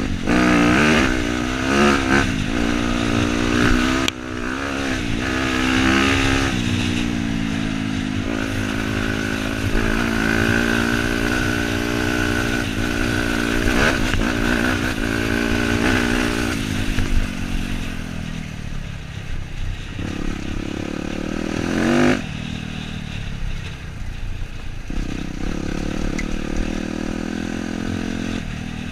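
Dirt bike engine being ridden, its pitch rising and falling with the throttle through the first part, holding fairly steady for a while, then running lower and easier in the second half with one brief surge of revs.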